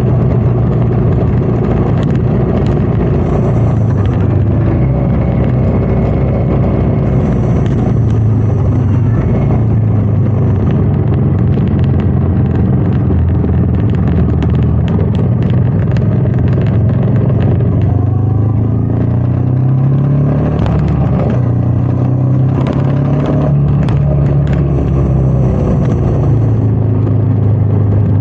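Royal Enfield Meteor 350's single-cylinder engine running steadily under way, with wind noise on the microphone. The engine note climbs a little past halfway through, then drops back.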